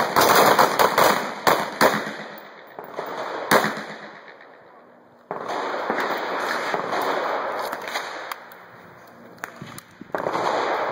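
Several handguns fired by a line of shooters: a rapid, uneven volley of pistol shots in the first two seconds, then a single late shot about three and a half seconds in. From about five seconds in there is a stretch of steady rushing noise.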